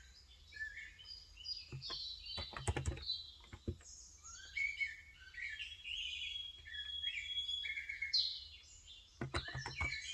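Birds chirping and twittering without pause, with two short runs of keystrokes on a Cox Endeavor electrocapacitive (Topre-style, 35 g) tenkeyless keyboard, one about two seconds in and one near the end.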